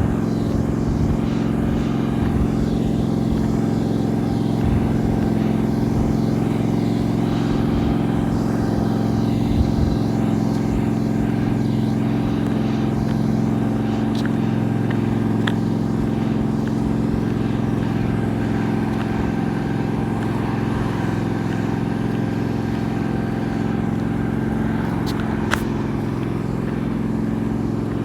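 Tractor engine running steadily at one constant speed, with a few light clicks.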